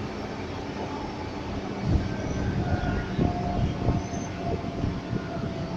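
Meitetsu 6500-series electric train car running, heard from on board: a steady running hum with held tones, broken by several low thumps. The uploader hears an unfamiliar sound from the traction motor, which may be part of this hum.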